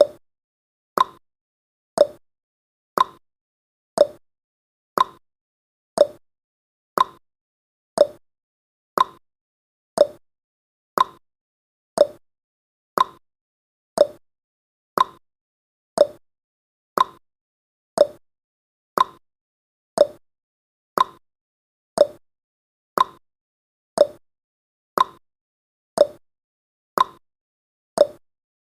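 Countdown timer's ticking sound effect: one short, clock-like tick each second, regular throughout.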